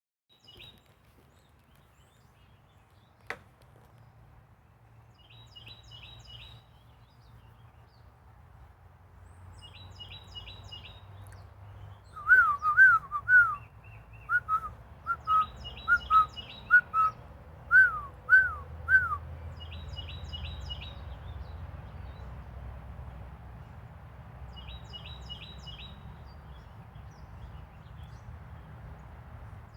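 Birds calling: short runs of quick high chirps, repeated every few seconds. In the middle, a loud run of about a dozen whistled notes, each a quick up-and-down slide, rises over the chirps for some seconds. A single sharp click comes a few seconds in.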